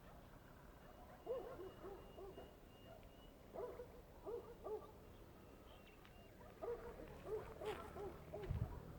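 A distant bird calling in phrases of short, low, hooting notes, three runs of four or five notes each, faint over quiet evening ambience. A low thump comes near the end.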